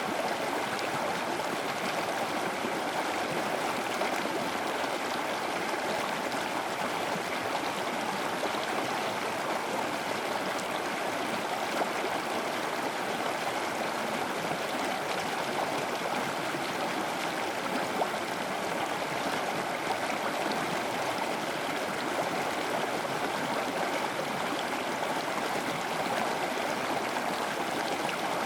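Running water of a stream, a steady, even rush that goes on without a break.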